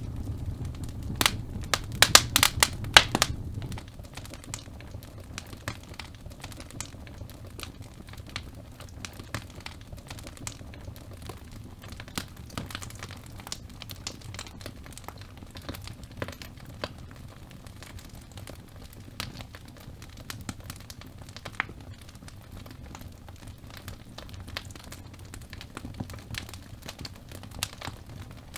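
Wood logs burning in a fireplace, crackling with irregular sharp pops. A burst of louder pops comes in the first few seconds over a low rumble of flame that drops away about four seconds in, leaving lighter, sparser crackling.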